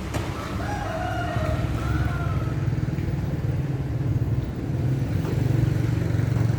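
An engine running steadily with a low, slightly pulsing hum, and a few brief higher tones early on.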